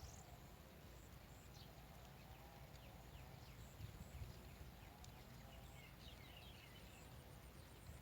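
Faint outdoor background with soft, high bird chirps, a short cluster of them about six seconds in.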